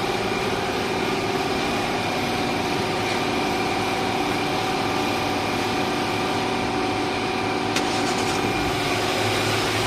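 2005 Jaguar car engine idling steadily, running smoothly without the shaking caused by its faulty fuel-delivery part, which has now been replaced. A short click sounds near the end.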